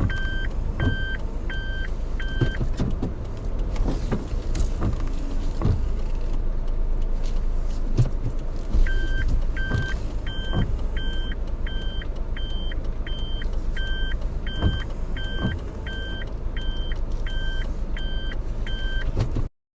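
Japanese railway level-crossing warning bell ringing over and over in a quick two-pitch pattern. It stops for a few seconds and then starts again, over a steady low rumble of a passing vehicle with scattered knocks.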